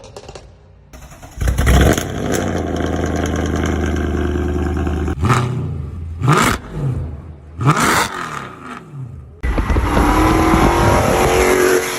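Car engines revving through their exhausts: one runs steadily at high revs, then two short sharp throttle blips rise and fall, and near the end another engine revs with climbing pitch.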